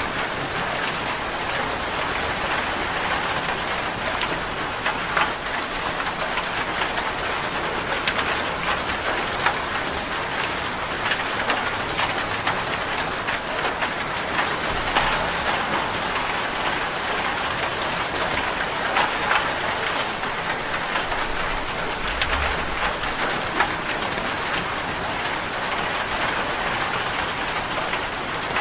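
Steady rain falling, an even hiss with many small scattered ticks of drops striking a surface.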